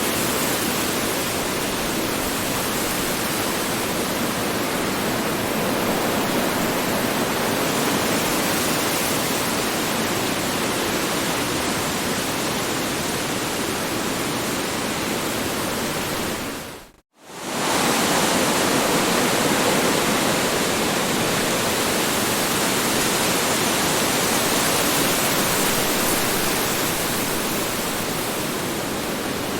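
Strong wind blowing in a steady, rushing roar. About seventeen seconds in it fades out for a moment to near silence, then swells straight back.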